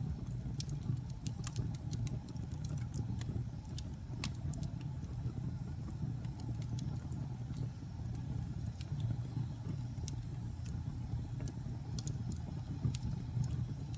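Wood fire burning in a fireplace, crackling and popping in frequent irregular sharp snaps over a steady low rumble.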